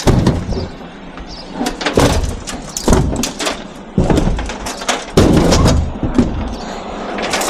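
Scrap metal being handled and loaded onto a truck: a run of loud bangs and metallic clatters, with heavy knocks about a second apart.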